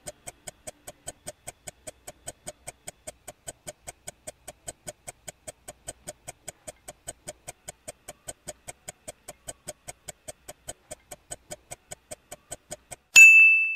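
Quiz countdown timer sound effect ticking evenly, about four ticks a second. Near the end a single bright ding rings out and fades, signalling that time is up and the answer is revealed.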